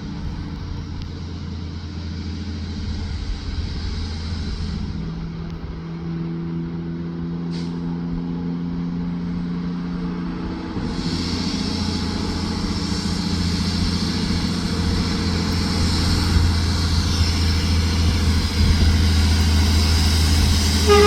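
Heavy truck engine running and growing steadily louder as it approaches.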